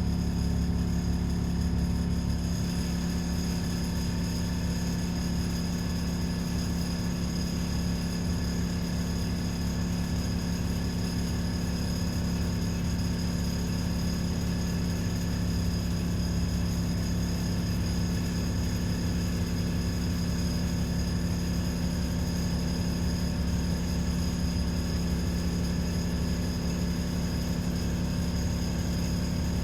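Diesel engine of an ADL Enviro 400 double-decker bus running steadily, heard from inside the passenger saloon: an even low drone with a faint high whine above it, holding the same pitch throughout.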